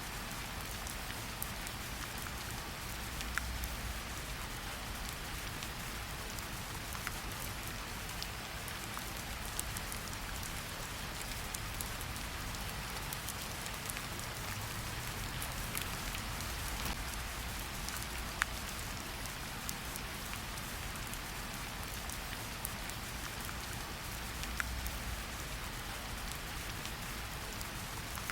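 Steady rain falling in a forest, an even hiss with many small drop ticks and a few louder single drips.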